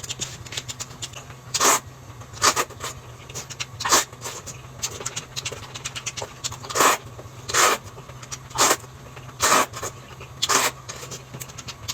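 Close-up eating noises: about eight short, loud smacks or slurps, roughly a second apart, among small chewing clicks, over a steady low hum.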